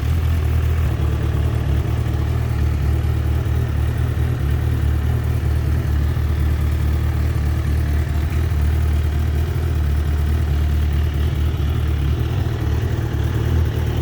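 Suzuki GSX-R1000 superbike's inline-four engine idling steadily, with no revving.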